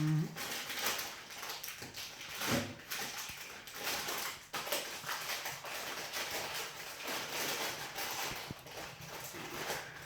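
Wood fire crackling in a fireplace as the kindling catches, with irregular sharp pops and snaps over a light hiss.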